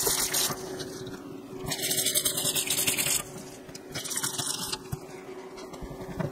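Hand scrubbing a stainless steel sink basin under the running faucet: water splashes and hisses in three bursts about a second long, with rubbing on the metal between them and a steady low hum underneath.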